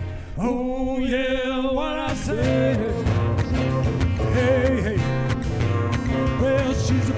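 Live country-style music from a guitar duo, with acoustic guitar and a lead melody. Near the start a note slides up and is held with a wavering pitch, followed by shorter bending phrases.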